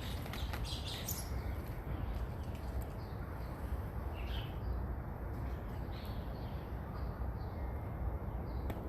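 Snow crunching and crackling for about the first second, then a steady low rumble with a few faint bird chirps.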